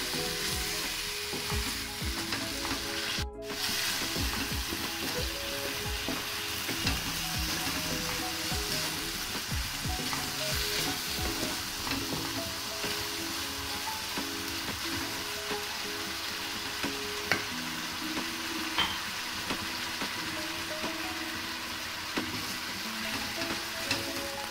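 Vermicelli cooking in ghee, water and sugar in a nonstick pan, sizzling steadily while a wooden spatula stirs and scrapes through it.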